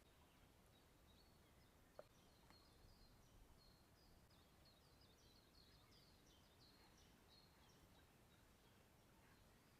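Near silence with faint birdsong: quick high chirps and trills, busiest in the middle, and one sharp click about two seconds in.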